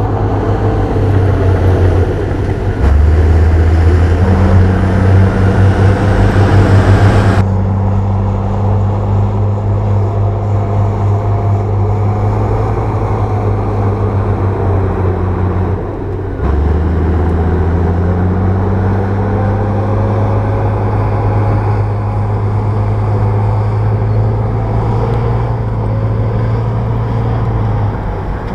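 Bulldozer's diesel engine running under load with a low, heavy note that shifts in pitch as it works, and track noise. The sound changes abruptly about seven seconds in and again about sixteen seconds in.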